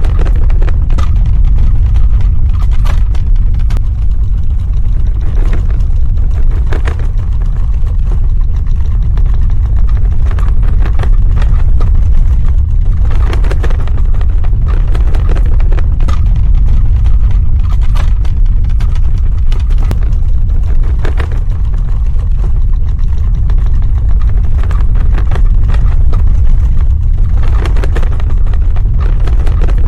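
Earthquake sound effect: a loud, continuous deep rumble with scattered crackles and rattles through it.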